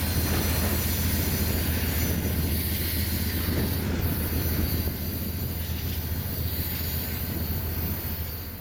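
BNSF freight train rumbling away down the line, with a steady low rumble and a high wheel squeal. It grows a little quieter and fades out at the end.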